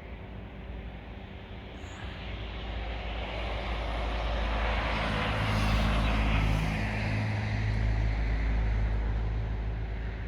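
A passing engine-driven vehicle: a rumbling hiss with a low hum swells from about two seconds in, peaks midway and fades toward the end.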